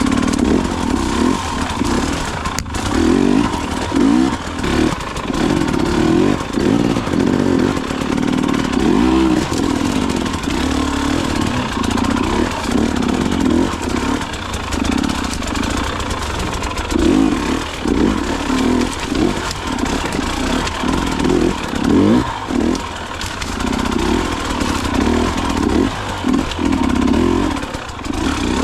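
Enduro dirt bike engine being ridden, its revs rising and falling over and over as the throttle is opened and shut, with occasional knocks.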